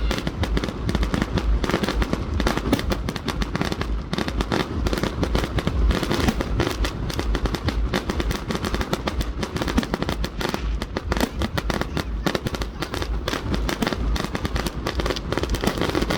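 Fireworks display: a dense, continuous barrage of rapid crackling bangs, many per second, with deeper booms underneath.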